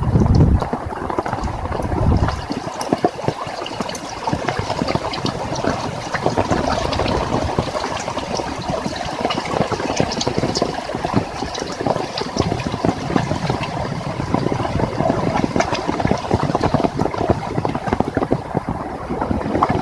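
Heavy rain falling steadily, a dense patter of drops, with gusts of wind buffeting the microphone at the start and about two seconds in.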